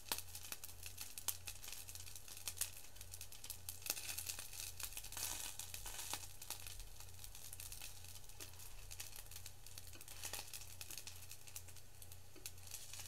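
Cheese-filled rice balls frying on an electric skillet: a steady fine crackle and sizzle with scattered small pops and clicks, over a low steady hum.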